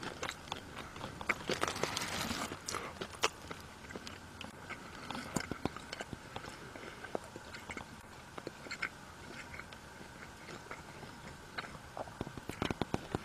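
A person biting into and chewing a bacon cheeseburger close to the microphone: irregular, wet mouth clicks and smacks.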